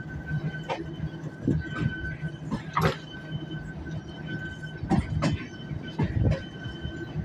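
Passenger train hauled by a GE U20C diesel-electric locomotive pulling out slowly, with a steady low hum and a thin steady whine. Irregular heavy clanks come as the wheels cross rail joints and points.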